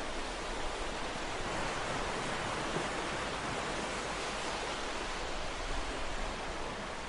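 Ocean surf: a steady rush of breaking waves that swells slightly in the middle.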